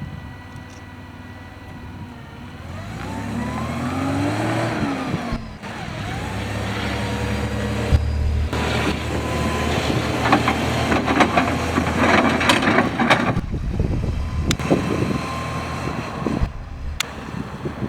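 Crown CG70S-7 propane (LP) forklift engine running and revving, rising then falling in pitch about four seconds in. It then runs harder with rattles and knocks for several seconds.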